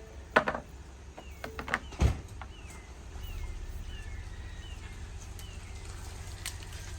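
Sharp metallic clicks and knocks from handling the pistol and its magazine, with one heavy thump about two seconds in. A bird then calls in a run of short falling chirps.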